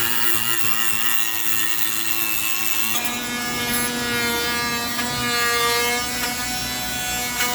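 Handheld electric power tool running steadily while cutting into wood, its motor whine dropping to a lower pitch about three seconds in as it takes the load.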